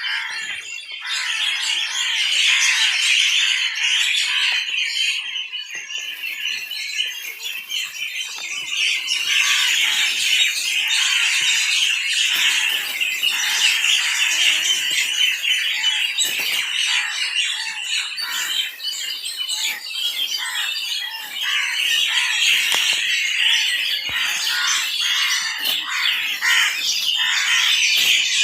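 A flock of small birds chirping and chattering together, many calls overlapping without a break.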